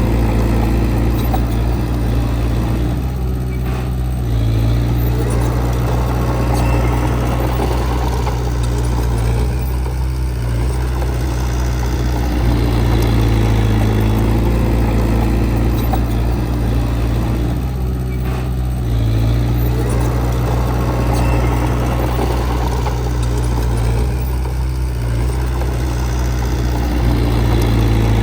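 Diesel engine of heavy earthmoving equipment running continuously. Its sound eases and builds again about every seven seconds as the work load changes.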